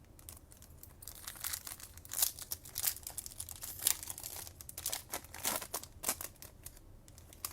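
A foil trading-card pack wrapper being torn open and crinkled, a run of irregular crackles.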